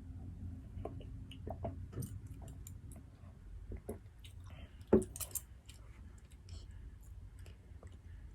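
Close-miked eating sounds: soft chewing and wet mouth clicks, with small scattered clicks and clinks, and one sharp knock about five seconds in.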